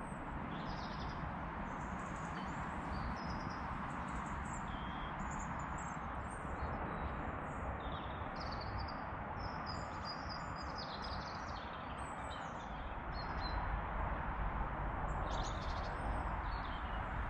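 Small songbirds chirping and twittering in short, scattered calls over a steady background hiss; the low background rumble grows louder about two-thirds of the way through.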